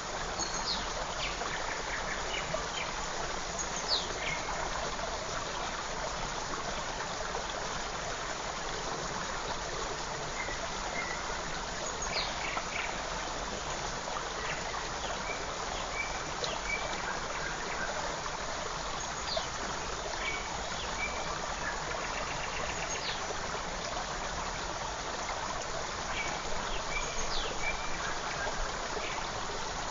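Forest stream babbling steadily, with short, high bird chirps and whistles scattered through it.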